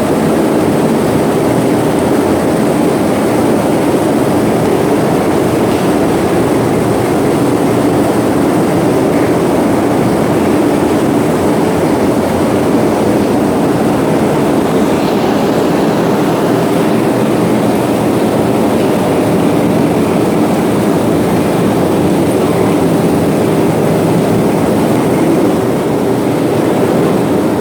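Plant machinery running with a loud, steady hum and drone.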